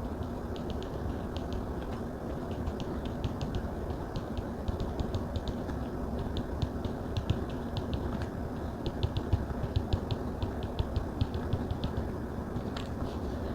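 A stylus nib tapping quickly and irregularly on a tablet's glass screen, making clusters of light clicks over a steady low background hiss.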